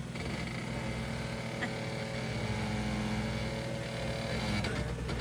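A Jeep's engine running steadily, a low, even hum.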